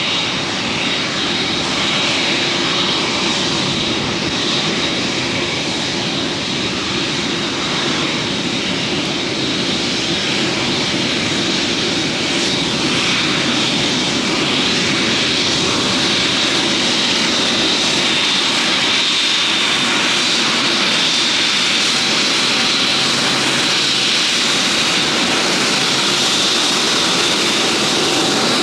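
Jet airliner engines running, a loud steady noise with a thin high whine held throughout.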